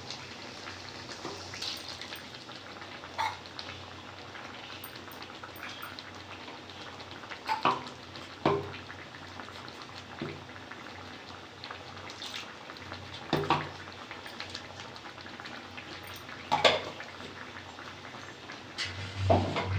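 Kitchen cooking sounds: a steady hiss of food cooking in a pan, with several sharp knocks and clinks of a utensil against the pot.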